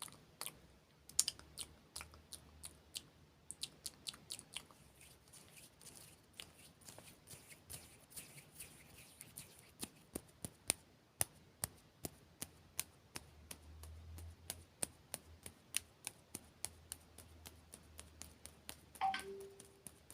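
Close-miked ASMR mouth and hand sounds: a steady run of crisp, sharp clicks and smacks, about three a second. A brief vocal sound comes near the end.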